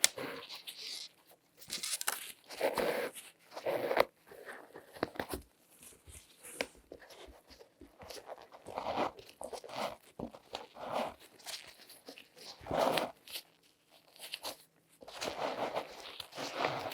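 Close-miked handling sounds from latex-gloved hands: irregular rustling, scraping and crinkling with sharp taps and clicks.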